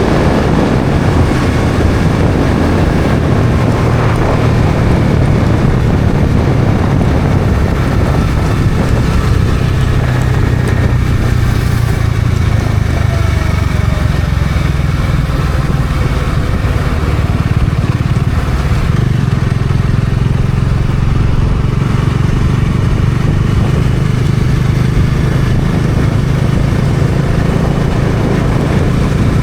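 Bajaj Dominar 400's single-cylinder engine running steadily while the motorcycle is ridden on the road, its note easing and picking up a little now and then, over a steady rush of wind and road noise.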